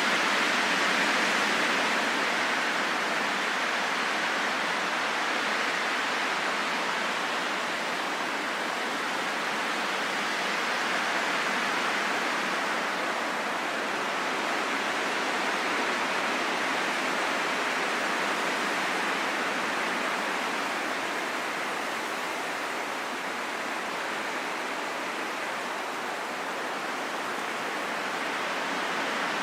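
Steady rushing wind with no gusts or breaks, slowly swelling and easing in strength.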